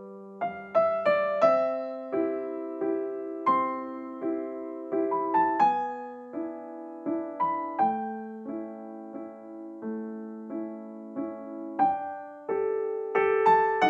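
Soft, gentle background music played on piano or electric piano: single struck notes and chords that ring and fade, in a slow melody.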